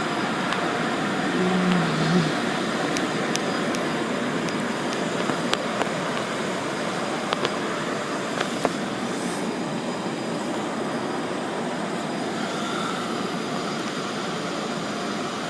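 Automatic car wash running: a steady rushing noise of water spray and machinery, with a few faint clicks.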